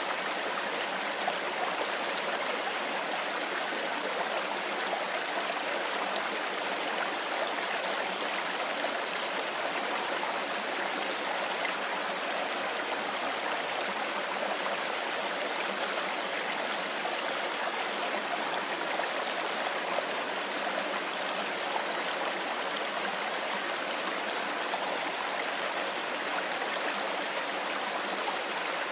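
A mountain forest river running: a steady, even rush of water with no breaks or changes.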